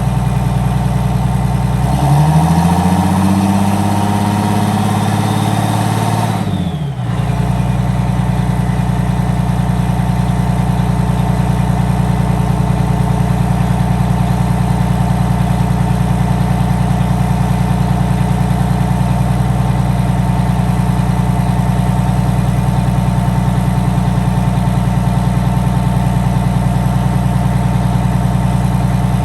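Detroit Diesel 6V92TA two-stroke V6 diesel of a GM 4106 coach running, just filled with fresh oil. About two seconds in it revs up, holds, and drops back near seven seconds in to a steady idle.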